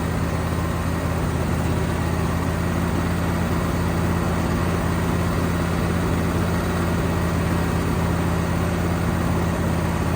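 An engine idling steadily with an even, low drone.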